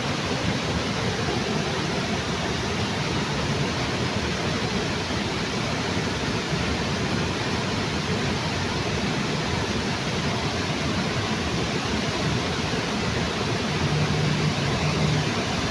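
Waterfall under a bridge: water pouring in a steady, even rush. A brief low hum rises under it near the end.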